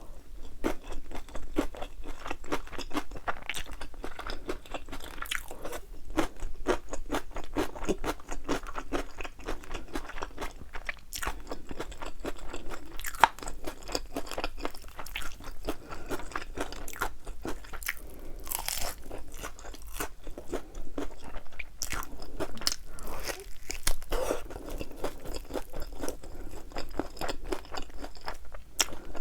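Close-miked eating of crispy fried chicken wings: steady crunching and chewing of thin, crisp batter, with irregular crackles and bites throughout.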